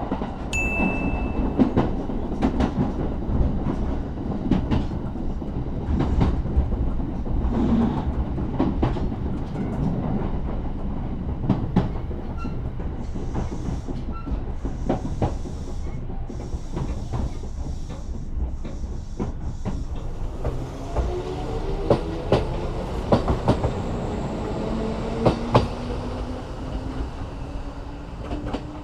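Kintetsu Suzuka Line train running along the track, heard from on board: a steady rumble with repeated clicks of the wheels over rail joints. A hum slowly rises in pitch over the last several seconds.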